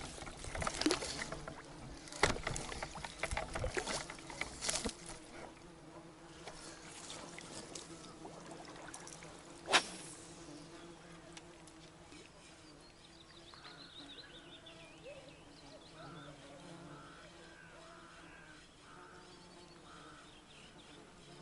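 Insects buzzing near the microphone. In the first few seconds come a string of sharp splashes and knocks, and about ten seconds in a single loud sharp click.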